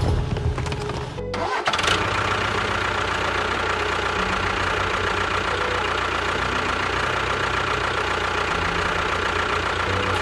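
Engine running steadily, with a brief break about one and a half seconds in.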